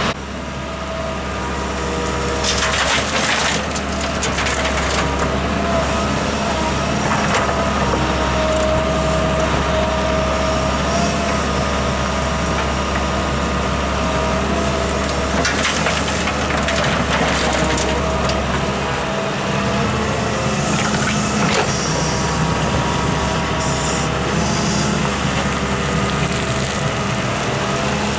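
Heavy earthmoving machinery at work: a diesel engine running steadily under load, with a few short noisy bursts of digging and scraping over it.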